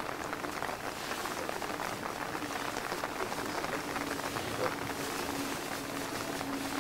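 Steady rain falling, an even speckled hiss of drops. A faint steady low hum comes in about four seconds in.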